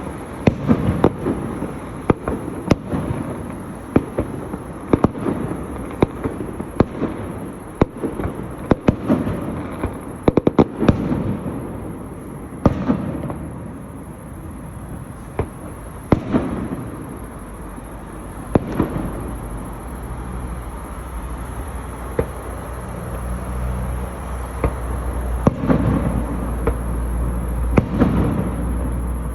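Fireworks display: aerial shells going off in a string of sharp bangs, with a rapid volley of cracks about ten seconds in, then fewer, spaced booms that rumble on after each burst.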